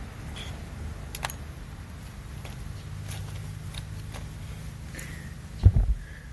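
Handling noise from picking through drill bits and tools: a few light clicks, then one heavy low thump near the end, over a steady low rumble.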